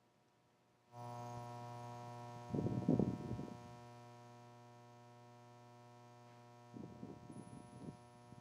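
Electrical mains hum with a buzzy stack of overtones that switches on about a second in and then holds steady. Two short bursts of low rustling noise break over it, one around a third of the way through and one near the end.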